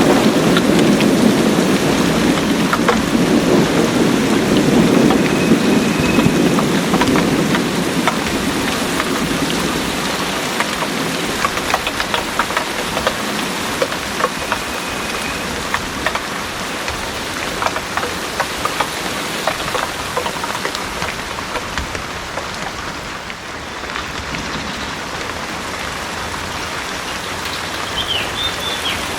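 Heavy rain pouring steadily, with scattered sharp drips close by. A low rumble of thunder fills the first several seconds and dies away.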